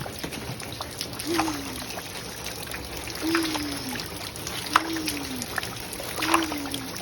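Water trickling and splashing as toy monster trucks are pushed through it. A voice makes a short falling sound about every one and a half seconds, each time with a splash.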